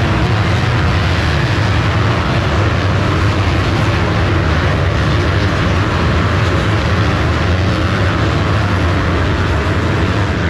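250cc motocross bikes racing on the track, a loud continuous mix of engines.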